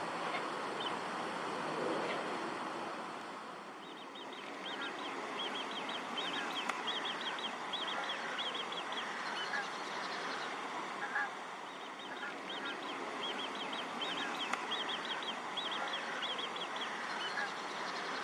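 Birds calling on a pond: clusters of quick, high chirps repeat from about four seconds in, with occasional lower waterfowl calls. A broad rumble fades away over the first few seconds.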